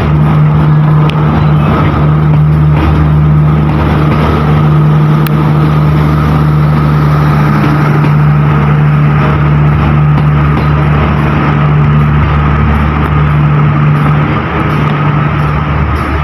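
Diesel locomotive engine running at a steady speed close by: a loud, even low drone that eases slightly near the end.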